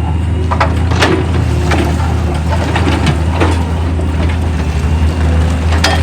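Heavy machinery engine running steadily under load, with a few sharp cracks and knocks of rock breaking or striking, the clearest about a second in, around three and a half seconds and near the end.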